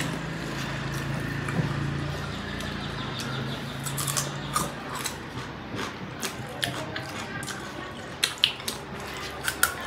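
Close-up eating sounds of people eating rice with pork curry by hand: short wet chewing clicks and lip smacks from about four seconds in, growing busier near the end. A low steady hum lies under the first half and stops about halfway.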